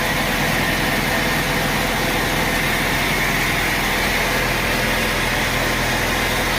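Sawmill machinery running steadily, an engine-like drone with an even hiss over it that does not change.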